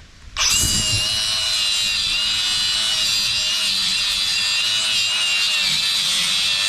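A power tool starts cutting metal about half a second in, then runs at steady speed with a constant high whine.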